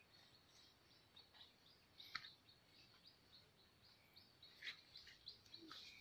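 Near silence with faint, scattered bird chirps: a few short high calls, the clearest about two seconds in and again near the end.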